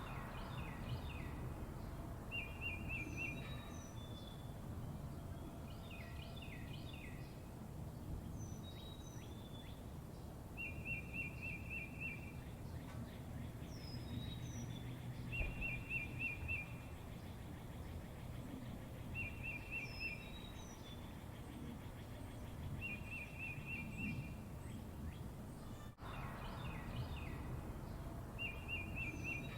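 Songbirds singing: a short, fast trill repeated every few seconds, with high whistled notes in between. A steady low background rumble runs underneath.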